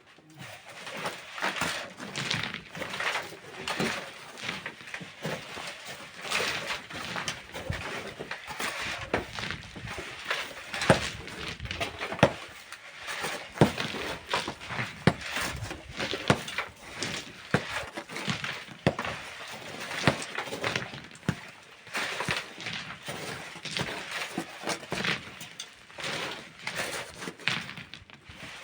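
Manual mining work with hand tools on stone and sand: irregular scraping and knocking strikes, with two louder, sharper hits near the middle.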